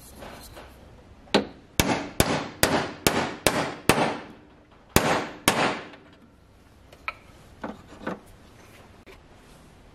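Light hammering: about nine sharp taps, two or three a second, each with a short ringing tail, then a pause and a few fainter knocks.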